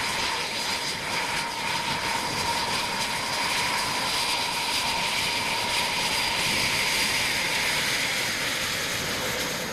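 Aircraft engine running steadily: an even rushing noise with a faint steady whine, easing off slightly near the end.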